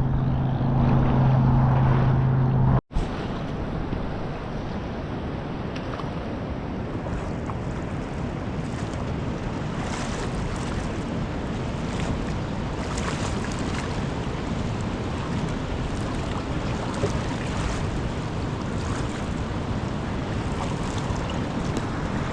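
Steady rush of wind and waves, with wind buffeting the microphone. A low steady hum plays under it for the first three seconds and stops abruptly.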